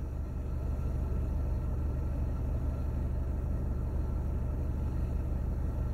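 Steady low rumble inside a parked car, its engine idling with the air conditioning running.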